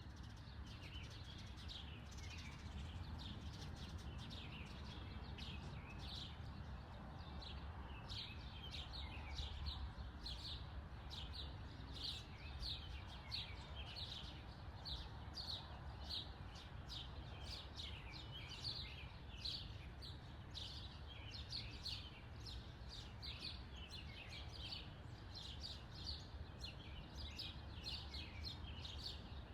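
Small birds chirping in quick short calls, several a second, over a faint steady low rumble.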